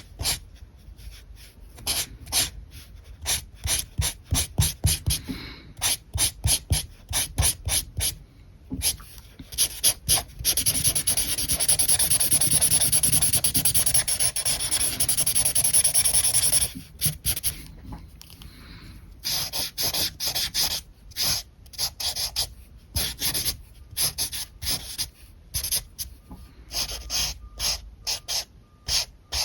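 Alcohol marker tips rubbing on paper: quick short strokes one after another, then about six seconds of continuous back-and-forth colouring-in, then short strokes again.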